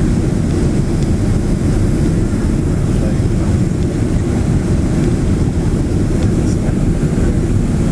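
Steady low rumble inside the passenger cabin of a Boeing 767 on final approach: engine and airflow noise, without change.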